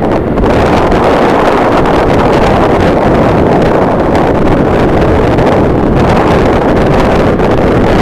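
Strong wind blasting the camera microphone with a loud, steady rush.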